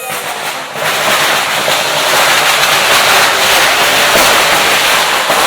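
A firework hissing and crackling. A loud, steady rush of fine crackles starts abruptly about a second in and keeps going.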